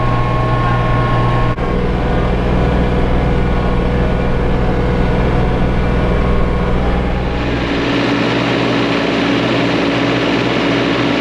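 Compact diesel tractor engine running steadily under way. A brief cut-out about a second and a half in, and a change in its tone, with more hiss, about seven and a half seconds in.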